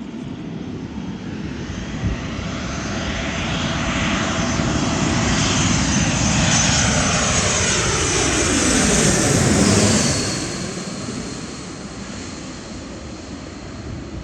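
Jet airliner passing low overhead, its engine noise building to a peak about ten seconds in and then fading, with the engine whine dropping sharply in pitch as it goes over.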